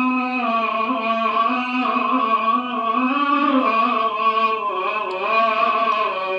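A man's solo voice singing a long melismatic phrase of an Iraqi-style manqaba, a devotional praise song for the Prophet. The pitch bends and turns through ornaments on one drawn-out vowel, without a break.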